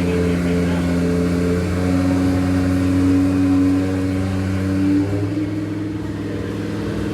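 Car engine running at a fast idle, its pitch rising a little about two seconds in and dropping back about five seconds in.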